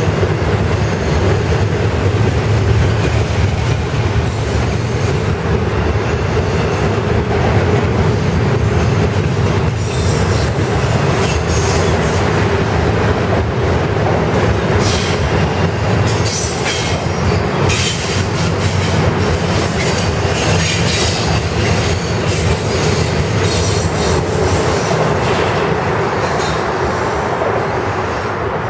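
Freight cars of a Norfolk Southern freight train rolling past, steel wheels on rail making a steady rumble with clicks and brief high squeals now and then. The sound eases slightly near the end.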